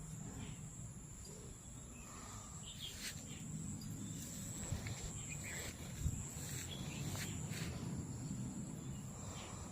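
Insects keep up a steady high-pitched trill over a low rumbling background. Short bird chirps and a few sharp clicks come and go on top.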